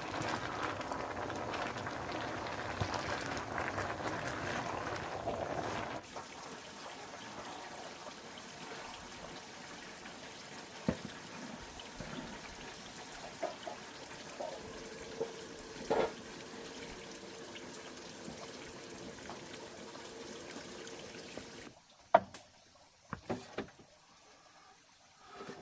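Water pouring and trickling for the first few seconds, then a quieter stretch with a few light knocks.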